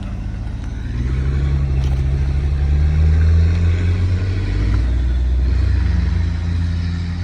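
A car engine running, its sound sitting low; about a second in it rises a little in pitch and loudness, holds, and eases back down later on.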